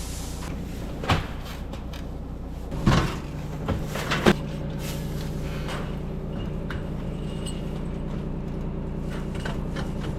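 A few sharp knocks and bangs, the loudest about three and four seconds in, over a steady low background of wind noise and a faint hum.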